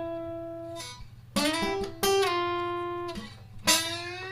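Guitar playing a phrase of single sustained notes, several of them sliding up or down in pitch into the next note.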